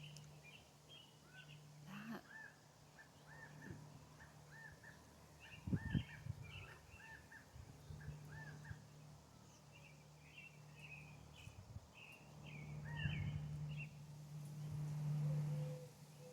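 Faint birds chirping outdoors. A run of short, repeated calls comes about two a second in the first half, and higher chirps follow later, over a low steady hum with one thump about six seconds in.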